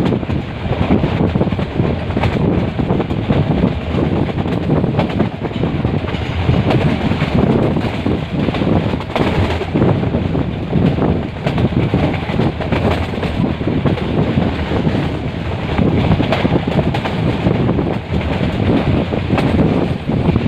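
Metre-gauge passenger train running: a loud, steady rumbling noise broken by frequent, irregular knocks and rattles.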